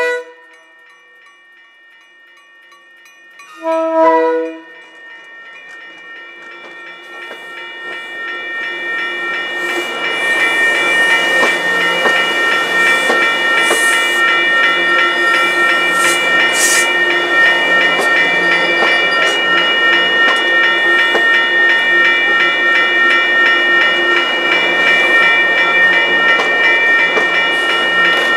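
MBTA commuter train giving a short horn blast about four seconds in. It then grows louder as it closes in and passes at close range: a steady rolling noise of wheels on rail, with several steady whining tones running through it.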